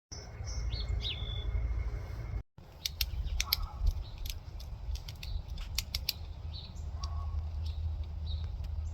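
Short high bird chirps with quick pitch glides, then a run of sharp, irregular ticks, all over a steady low rumble.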